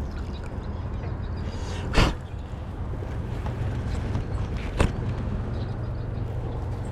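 Steady low rumble of wind on the microphone, broken by two sudden short noises, about two seconds in and near five seconds, the first the louder.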